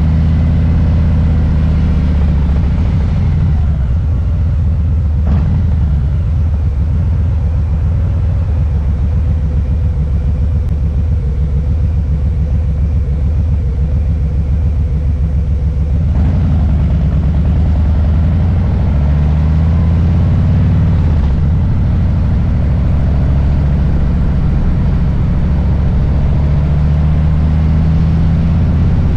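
Harley-Davidson Low Rider S's Milwaukee-Eight V-twin running under the rider, a deep rumble that holds steady at the start and through the last third, and turns rougher and pulsing for several seconds in between as the revs change.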